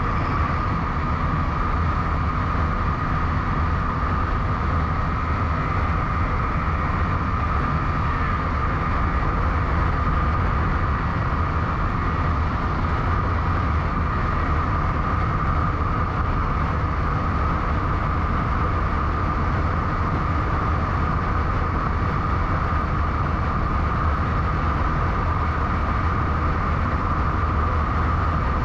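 Motorcycle riding at a steady cruising speed: constant wind rumble buffeting the action camera's microphone, with a steady mid-pitched whine of engine and tyres over it.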